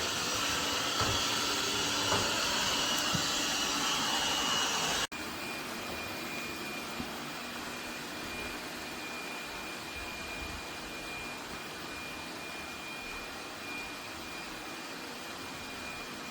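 Robot vacuum running: a steady whine and hiss from its suction fan. The sound cuts off abruptly about five seconds in and goes on a little quieter, with a thin high whine.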